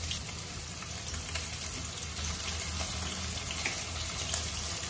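Floured sand whiting fillets shallow-frying in hot oil in a wok: a steady sizzle with occasional faint crackles.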